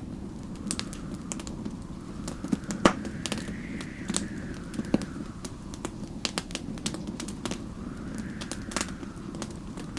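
Log fire crackling and popping in irregular sharp snaps, the loudest about three seconds in, over a low steady rumble. Snowstorm wind howls behind it, swelling and fading twice.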